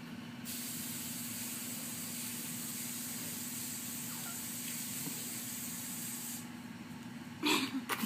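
A steady hiss cuts in about half a second in and stops suddenly after about six seconds, over a low steady hum. A brief louder sound comes near the end.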